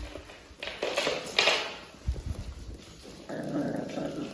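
Welsh Terrier puppies playing and making small dog noises over a dangled toy, with scuffling and a low thump about two seconds in.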